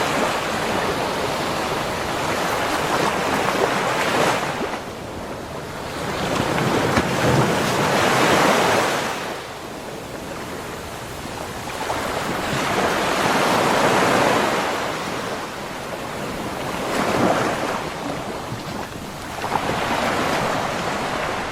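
Sea waves breaking and washing up a beach shore, each surge swelling and fading, a new wave about every five to six seconds.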